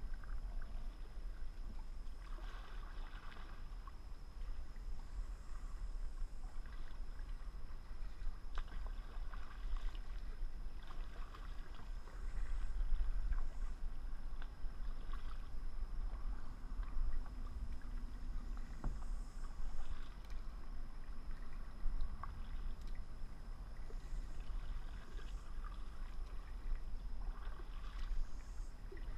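Kayak paddle strokes: the blades dip and splash in the water about every two seconds, over a steady low rumble.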